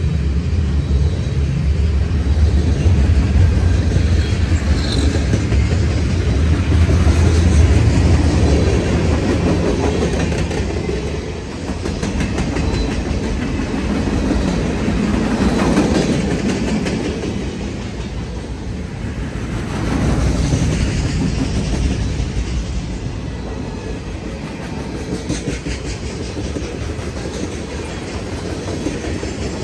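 Train passing on a mainline: a heavy deep rumble for the first ten seconds or so, then the steady rolling of the cars with the clickety-clack of wheels over the rails.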